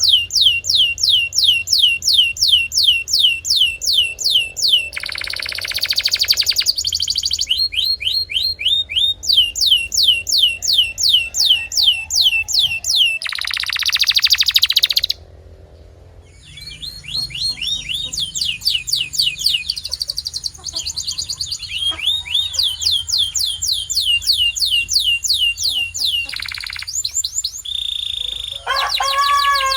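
Domestic canary singing: long trills of fast-repeated high notes, broken twice by a harsh buzzing roll, with a brief pause about halfway and lower notes near the end.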